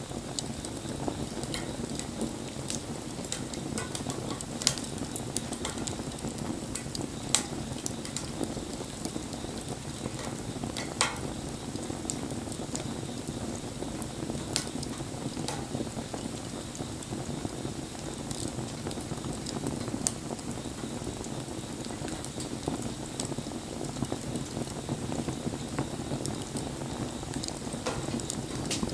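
Wood fire burning, with a steady low rush of flame and sharp crackles and pops every few seconds.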